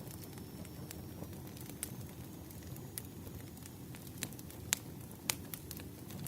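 Wood fire in a fireplace crackling: irregular sharp pops and snaps over a low steady rumble, with two louder pops a little past the middle.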